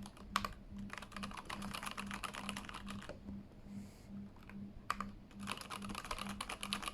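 Typing on a Keychron K8 mechanical keyboard fitted with new Mario-theme keycaps, as a sound test: quick runs of key clacks, a pause of about two seconds in the middle with only a few strokes, then fast typing again.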